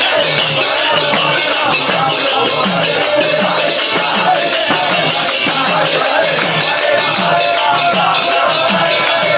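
Kirtan music: a drum keeping a steady beat about twice a second under fast, regular jingling of hand cymbals, with a chanted melody faintly in the mix.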